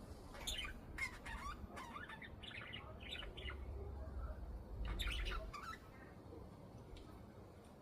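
Pet budgerigars chirping and squawking in quick scratchy calls: a run of them over the first few seconds and another burst about five seconds in, with a low rumble underneath.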